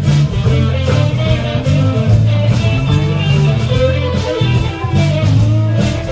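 Live blues-rock band playing an instrumental break: electric guitar lead over a repeating stepped bass line, with drum cymbals struck on a steady beat.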